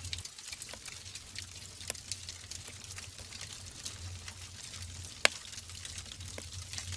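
Wood fire burning in a fireplace: logs crackling with scattered small pops over a low, steady rumble of flame, and one sharp, loud pop about five seconds in.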